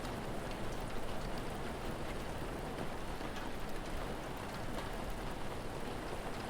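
Steady rain falling, with scattered faint crackles of a wood fire over it.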